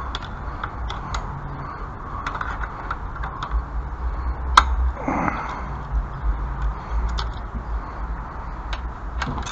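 Small metallic clicks and taps of hardware being worked by hand on a fastener that won't tighten, with one sharper click about halfway through, over a low wind rumble.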